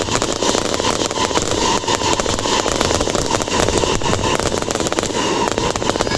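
Fireworks display: a dense, continuous crackle of many small rapid bursts.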